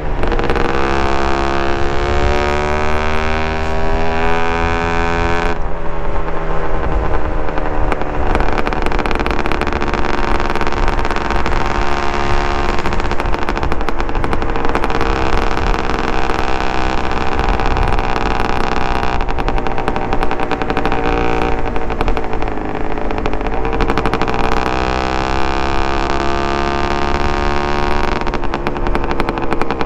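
Suzuki TS125R two-stroke single-cylinder enduro engine running through a DEP aftermarket exhaust. The engine revs rise for the first five seconds or so and break off sharply as it shifts. It then runs at a steadier engine speed and climbs again near the end.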